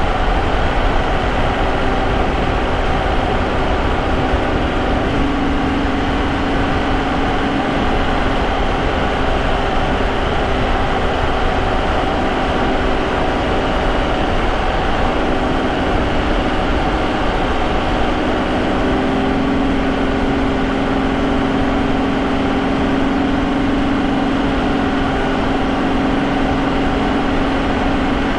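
Vauxhall Omega's 3.2-litre 24-valve V6 running at a steady cruise, picked up by a microphone in the engine bay near the K&N air filter, with a constant steady drone over road and tyre noise.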